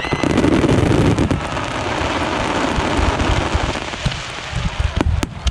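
Aerial fireworks crackling in a dense, rain-like shower of tiny pops, with a few sharper separate bangs near the end.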